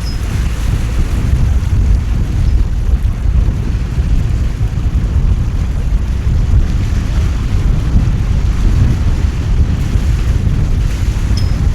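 Heavy rain and strong wind in a coastal storm, the gusts buffeting the microphone in a steady low rumble beneath the hiss of the downpour.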